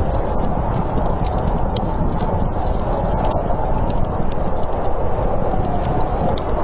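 Campfire crackling, with sharp irregular pops and snaps, over a steady rush of snowstorm wind.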